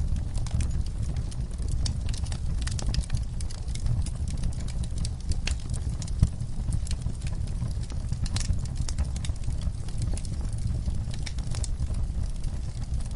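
Wood fire burning in a fireplace: a steady low rumble of the flames with frequent irregular crackles and pops, one sharper pop about six seconds in.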